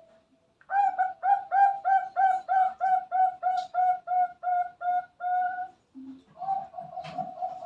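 Zebra dove (perkutut) cooing: a run of about sixteen clipped, evenly spaced coo notes, about three a second. After a short pause comes a quicker run of shorter notes.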